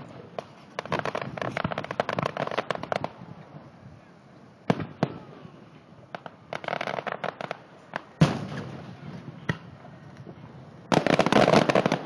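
Aerial fireworks shells exploding overhead. There are three spells of dense crackling, the longest in the first few seconds and the loudest near the end, and single sharp bangs between them.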